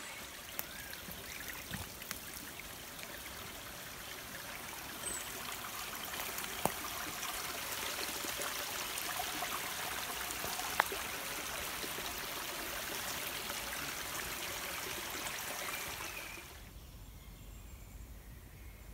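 Small woodland stream running steadily, a hissing trickle of water over stones, with a few faint clicks. About three-quarters of the way through the water sound drops away, leaving a quieter low background.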